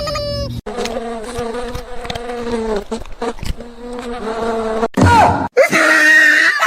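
A steady droning buzz, like a flying insect, holding a few pitches for about four seconds. Near the end it cuts off and gives way to a brief loud sweep and then a run of short high-pitched calls.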